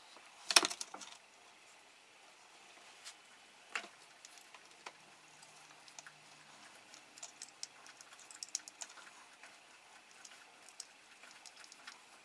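Scattered small clicks and taps of hand tools and small parts being handled during a repair, with one louder knock about half a second in.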